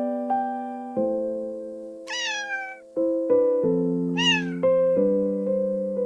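A kitten meowing twice over piano music, each meow a short call that bends in pitch, the first about two seconds in and the second about four seconds in.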